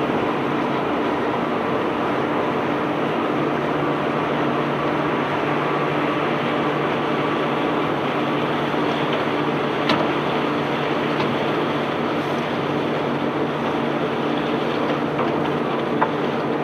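Steady drone of a self-unloading barge's machinery running during discharge, an engine hum under the rumble of the unloading conveyor. A sharp knock comes about ten seconds in and another near the end.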